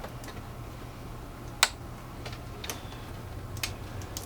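Scattered small plastic clicks and taps from handling a vehicle wiring connector, with one sharper click about one and a half seconds in.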